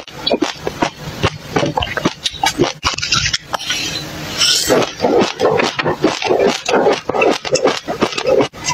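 Close-miked mouth sounds of a person eating dry mixed seeds: rapid crunching and chewing, with a hissing rush of seeds pouring from a glass into the mouth about halfway through, then thick, steady crunching.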